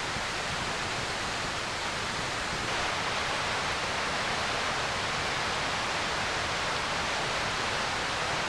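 Steady rushing of a mountain stream running close by.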